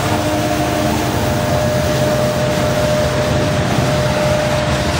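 Coal hopper cars of a freight train rolling past, a loud steady rumble of wheels on rail with a steady whine over it.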